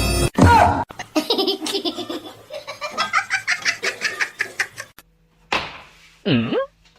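Hearty laughter in rapid ha-ha bursts for about four seconds, then near the end a short falling swoosh and a sound effect whose pitch dips and rises again.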